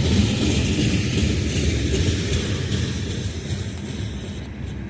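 Oil train of tank cars rolling past: a steady low rumble of rail noise under the hiss of heavy rain, growing slowly quieter toward the end.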